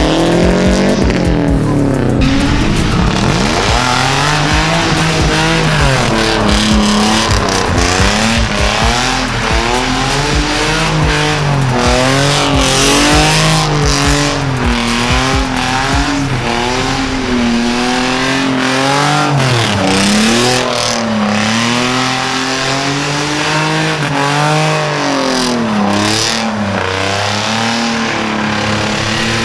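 Car engine revving up and down again and again while the tyres squeal, as a car drifts and does donuts.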